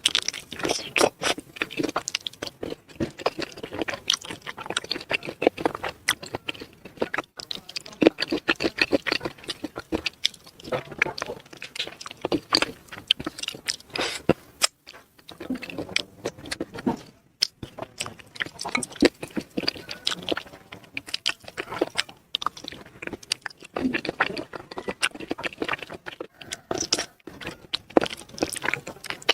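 Close-miked mouth sounds of someone biting and chewing spicy chicken feet: a dense run of wet clicks and smacks, broken by a couple of brief pauses.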